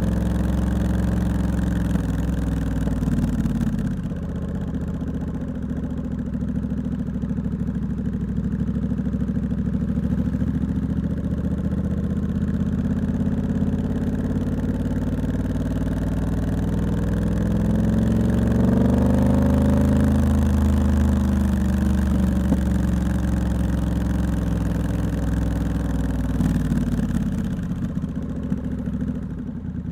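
Triumph Scrambler 1200X's 1200 cc parallel-twin engine through a loud aftermarket Hitchcox exhaust, heard from the rider's seat while riding at low revs. The revs dip a few seconds in, climb slowly to a peak about two-thirds of the way through, then drop back, with a brief blip again near the end.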